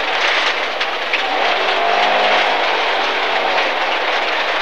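MG ZR rally car's 1.4-litre engine pulling at speed on a gravel stage, heard from inside the cabin over a constant rush of tyre and stone noise. The engine note rises and then falls again about halfway through.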